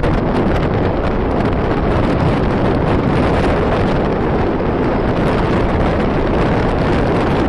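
Loud, steady rush of wind buffeting the microphone while moving at speed, with a deep rumble underneath.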